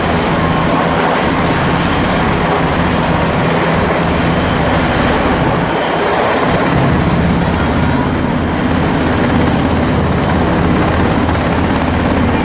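Military helicopter running loudly and steadily, a dense rotor-and-turbine noise with a fast, even chop.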